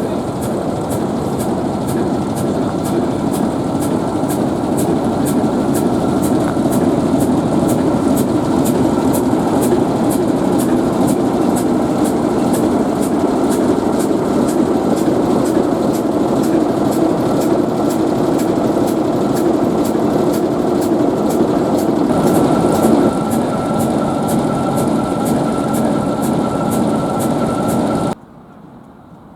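ALCO RS-1 diesel-electric locomotive idling steadily, its six-cylinder ALCO 539 engine running with a steady tone over it and a regular high ticking, about two ticks a second. It cuts off suddenly near the end.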